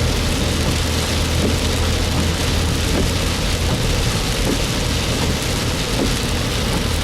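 Rain falling on a moving car, with a steady low road and engine rumble underneath.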